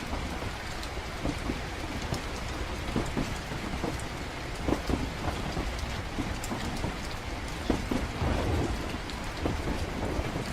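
Steady rain with a deep low rumble underneath and scattered small taps and knocks, as in a rainy night-train ambience; the rumble swells about eight seconds in.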